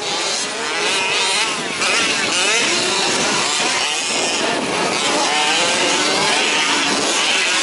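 Several 1/5-scale petrol RC off-road trucks racing, their small two-stroke engines revving up and down and overlapping, with pitch rising and falling as they throttle through the corners.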